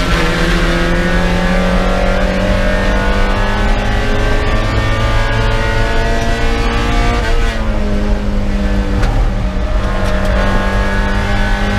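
In-car sound of a Spec Miata's four-cylinder engine at full throttle, its pitch climbing steadily as the car accelerates down the straight. About two thirds of the way through, the note drops sharply as the driver lifts and slows for the corner, then runs lower and steadier.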